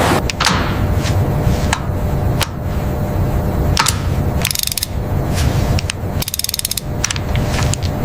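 Mechanical clicking: single sharp clicks about once a second, and two short bursts of rapid ratchet-like clicking about halfway through and again later, over a steady low industrial hum.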